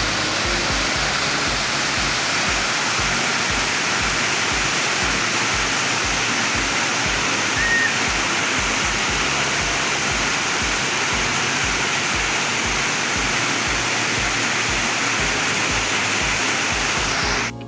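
Steady, loud rush of a high waterfall's falling water, with faint background music and a regular low beat underneath.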